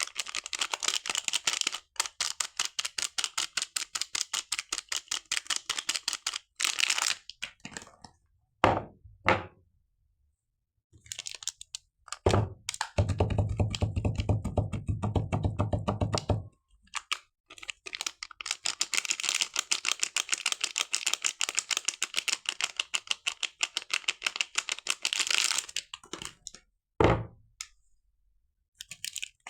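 Soap packaging handled and unwrapped by hand: long runs of quick small clicks and crackles, several a second, broken by short pauses. Three heavier thunks come about a third, two fifths and nine tenths of the way through, and there is a stretch of lower, rougher rubbing near the middle.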